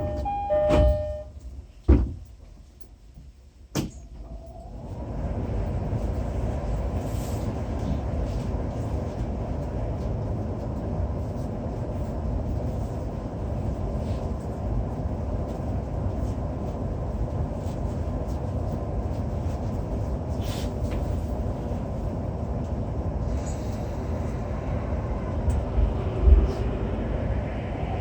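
Interior of a JR East E231 series 800 EMU. The sliding doors close with two thuds about one and two seconds in, followed by a brief lull. About four seconds in the train starts off and settles into steady running noise from the motors, wheels and rails.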